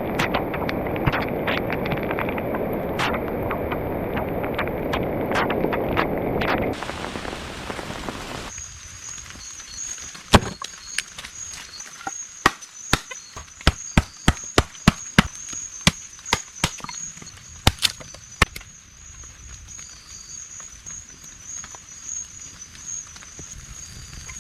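Heavy rain falling steadily for the first several seconds. Then, much quieter, a steady high insect trill with a run of about twenty sharp knocks over some eight seconds, in irregular clusters, like a tool striking wood.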